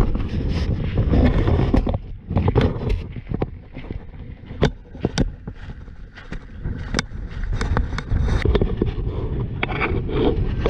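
Wind buffeting the microphone as a low rumble, with a string of sharp clicks and knocks in the quieter middle stretch before the rumble picks up again near the end.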